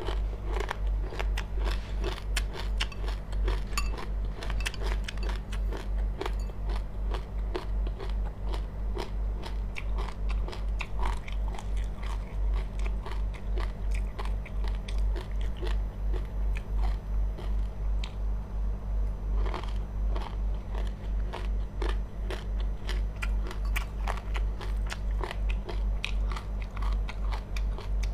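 Someone chewing crunchy seeds, a dense run of small crackling crunches, over a steady low hum.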